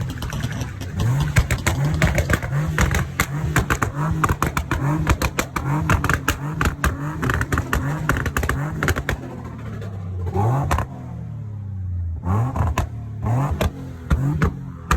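Car engine blipped over and over, each rev a short rise in pitch, settling briefly to a steady idle about ten seconds in before the revving resumes.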